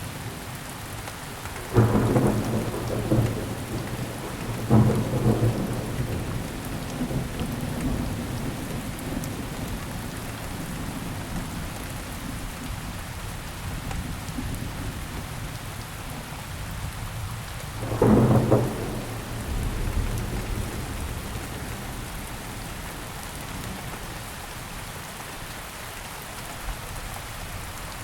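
Steady heavy rain falling, with low rolls of thunder about two seconds in, again around five seconds, and a loud one about eighteen seconds in.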